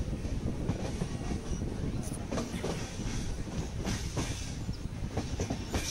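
Passenger train running on the track, heard from on board at an open window or door: a steady low rumble with irregular clicks and knocks from the wheels and carriage.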